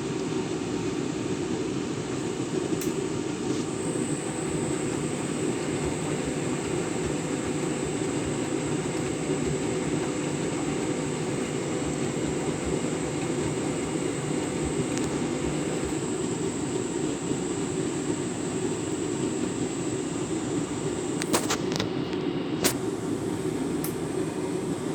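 Candy Grand'O Vita 7kg front-loading washing machine running its deep rinse, a steady rumble of the drum turning through the rinse water. A few sharp clicks come near the end.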